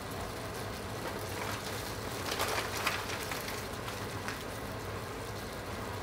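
Pork chops in a cherry balsamic glaze sizzling in a skillet: a steady frying crackle, with a denser spell of pops a little past halfway.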